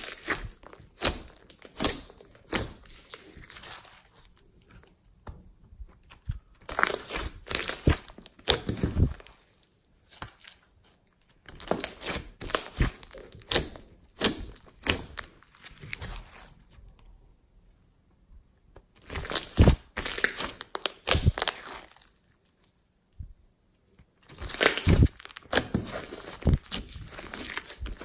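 Slime being squeezed, poked and stretched by hand: bursts of sticky crackling and popping clicks, separated by a few short pauses.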